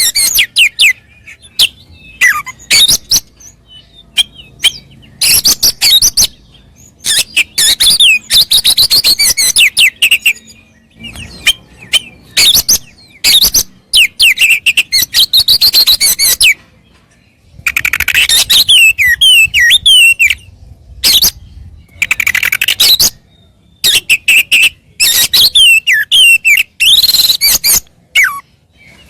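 Oriental magpie-robin (kacer) singing loudly in a run of varied phrases of fast gliding whistles and sharp clicking notes, each burst about one to three seconds long with short pauses between.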